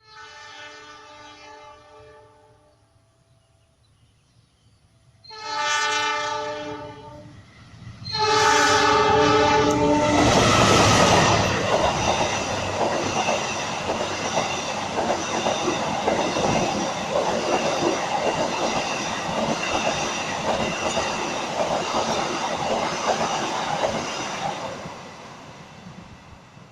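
Gajayana passenger train sounding its horn three times: a faint blast at the start, then two louder blasts about five and eight seconds in. It then passes close by, its wheels clattering over the rail joints for about fifteen seconds before the sound fades.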